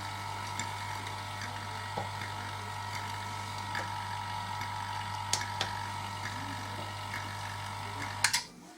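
Refrigerator compressor running with a steady hum and a few light clicks, then a couple of clicks about eight seconds in as it stops and the hum cuts off.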